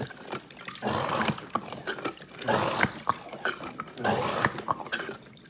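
Water sloshing and splashing in a plastic AquaPlay toy water playset as the boats and water are moved by hand, in three bursts about a second and a half apart, with light plastic clicks.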